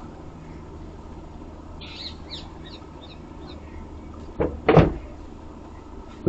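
Two thumps close together about four and a half seconds in, the second louder, over a steady low hum; a few faint chirps about two seconds in.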